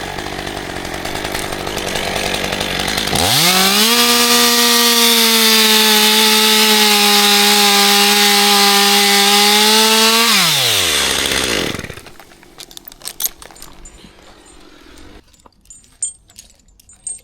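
Chainsaw running. About three seconds in it revs up quickly to full throttle and holds a steady high whine for about seven seconds, then winds down and stops. Scattered light knocks follow.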